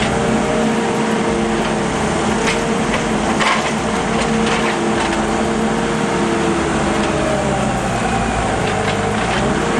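A heavy vehicle's engine running steadily under a loud wash of noise, with a few short knocks about two and a half and three and a half seconds in.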